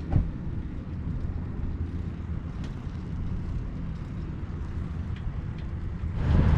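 Steady low rumble of wind buffeting the microphone while riding a bicycle, with a short thump about a tenth of a second in.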